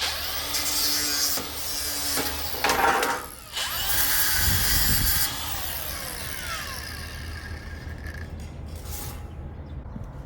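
Workshop tool noise: a motor whining up and down in pitch, with bursts of hissing and grinding about three and four to five seconds in, then settling lower.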